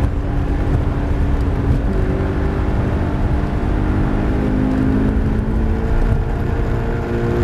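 Toyota 86's 2.0-litre flat-four engine heard from inside the cabin, pulling steadily as the car accelerates, its note rising slowly, over rumbling tyre and road noise on a wet track.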